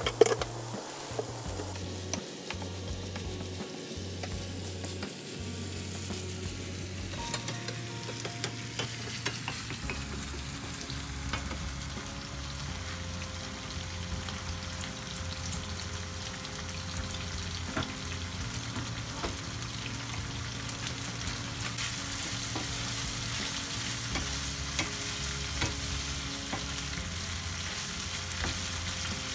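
Chicken liver and green peppers frying in a pan with a steady sizzle, a wooden spatula stirring and knocking against the pan now and then, sharply right at the start and again near the end.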